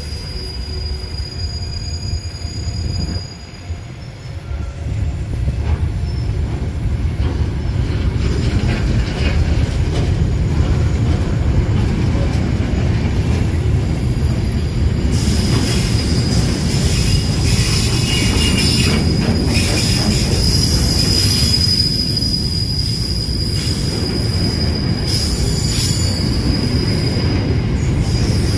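Train moving through a station with a steady low rumble and a thin, high-pitched wheel squeal. The squeal grows much louder about halfway through.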